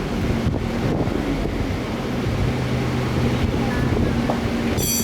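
Repaired vacuum cleaner motor running, a steady rush of air with a low hum under it. A brief shrill squeal comes in near the end.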